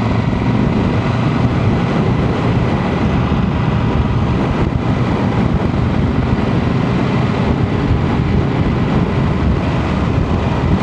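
Motorcycle riding at speed: a steady, loud mix of engine and wind rushing over the rider's microphone.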